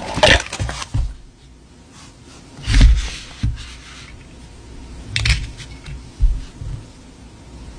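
Handling of a perfume box and its packaging: scattered taps and a few sharp clicks. The loudest is a knock with a low thump about three seconds in.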